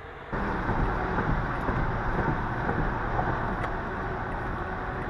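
Steady road and wind noise of traffic or a moving vehicle, starting suddenly about a third of a second in.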